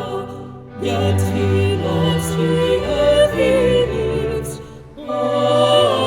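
A hymn performed as music with singing, in sustained phrases, with a short breath-like break about a second in and another near the end before the next line begins.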